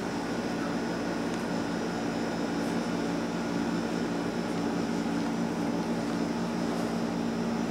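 Steady mechanical hum with an even hiss underneath, unchanging, with a couple of faint ticks.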